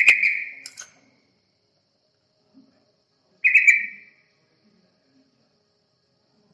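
Yellow-vented bulbul (trucukan) call repeated twice, short phrases under a second each, about three and a half seconds apart. It is a lure call, used to draw the birds in.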